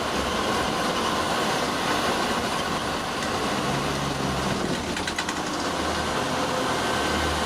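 Fire engine on the move: a steady engine drone with road noise.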